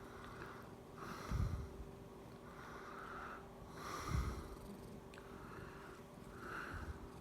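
Domestic cat purring close up, each breath heard as a soft airy rush about every second and a half. Two louder low rumbles come about a second and four seconds in.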